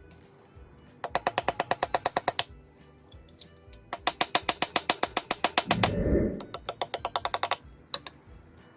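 Metal tool work on a broken exhaust stud: rapid, evenly spaced clicking, about ten clicks a second, in two runs, the second longer, with a brief lower burst of power-tool noise midway through it.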